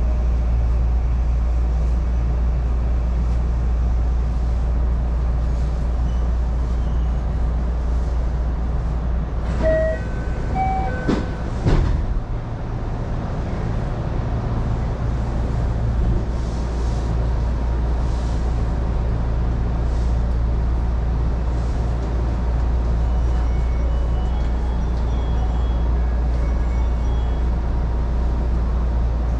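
Running noise inside a JR Osaka Loop Line electric commuter car in motion: a steady low rumble from wheels on rails and the motors. About ten seconds in there is a brief cluster of short pitched tones and a few clacks, after which the running noise eases slightly.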